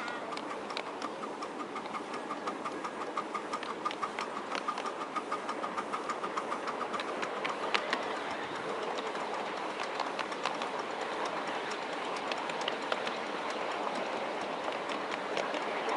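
Miniature railway train running along the track, heard from on board: a fast, even pulse of about four or five beats a second for the first several seconds, with wheels clicking over the rail joints throughout.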